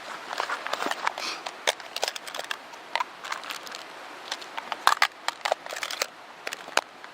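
Dry wood snapping and crackling in irregular sharp cracks, thickest twice, over a steady background hiss.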